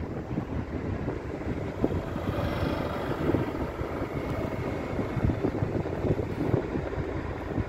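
DSB MF (IC3) diesel multiple unit running slowly along the track below, a steady low rumble with wind buffeting on the microphone.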